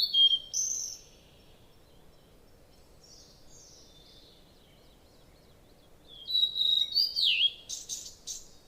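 Small songbirds chirping: a run of quick high calls at the start, faint calls in the middle, and another lively run near the end that includes a note dipping and rising in pitch.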